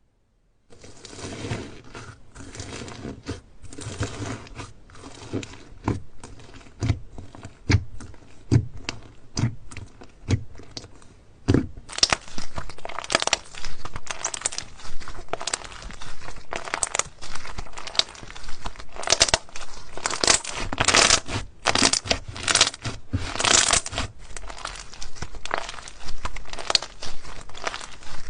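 Slime being squished and kneaded by hand, making a run of irregular sticky crackles and pops that grows louder about halfway through.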